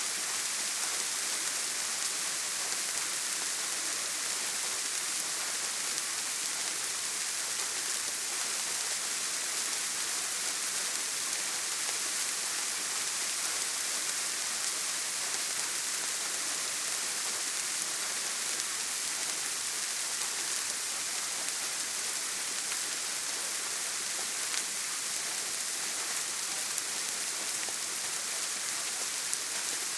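Steady rain on a tin roof: an even hiss with a few faint scattered drop ticks.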